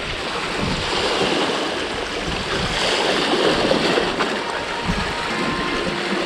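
Strong gusty wind rushing over the microphone, with the wash of surf in it. Faint background music comes in near the end.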